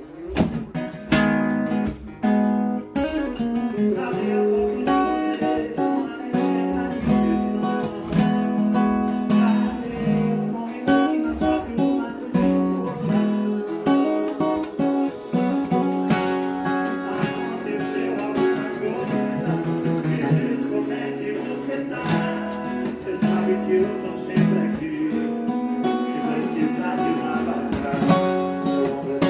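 Takamine acoustic guitar playing a sertanejo tune instrumentally, with strummed and picked chords in a steady rhythm.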